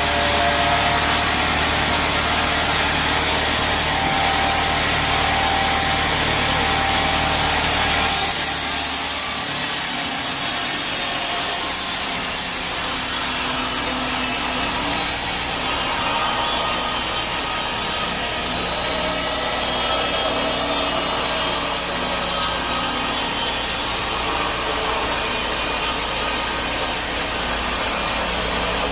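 Band sawmill running, its blade cutting through a teak log: a steady machine hum at first, then about eight seconds in the sawing noise rises sharply and continues evenly as the blade works through the wood.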